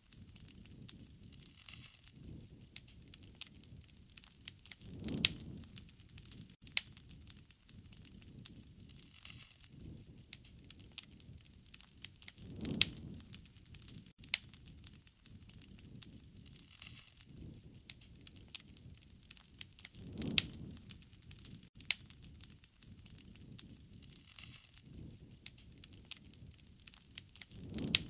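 Wood fire crackling, with many irregular sharp pops and snaps over a soft hiss. A low rush of flame swells and fades about every seven and a half seconds.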